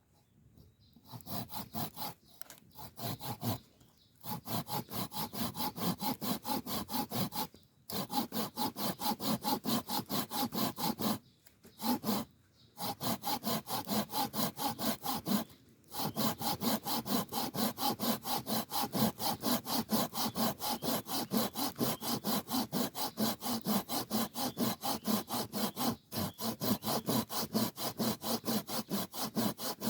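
Hand saw cutting through wood in quick back-and-forth rasping strokes, stopping briefly several times before carrying on.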